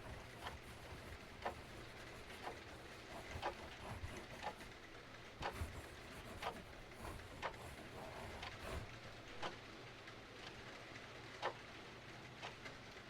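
Clock ticking about once a second over a steady hiss of rain, with a few irregular crackles from a wood fire in between.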